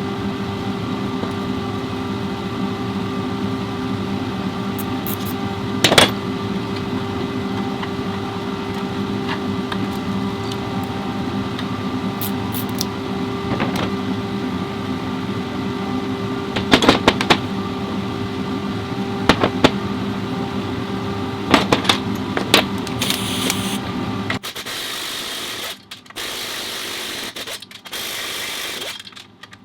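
A car engine running steadily, a hum with several constant tones and a few sharp clicks over it. Near the end the sound cuts abruptly to a choppier, noisier mechanical sound broken by short gaps.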